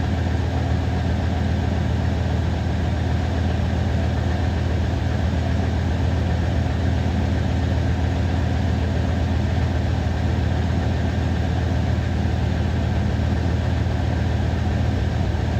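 Second-generation Dodge Ram 1500's Magnum V8 idling steadily shortly after a cold start, warming up.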